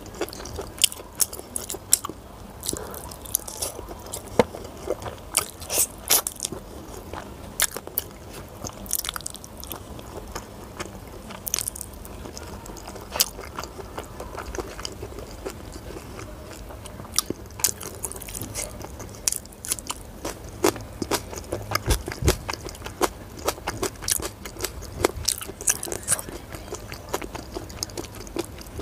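Close-miked chewing of a mouthful of chicken curry: wet mouth clicks and smacks at an irregular pace.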